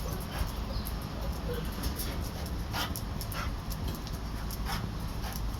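Dogs giving short, scattered barks and whines over a steady low background hum.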